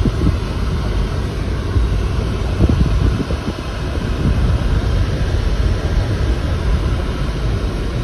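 Mercedes-Benz 300TE 4Matic's 3.0-litre straight-six idling steadily while still warming up from a cold start, heard from inside the cabin.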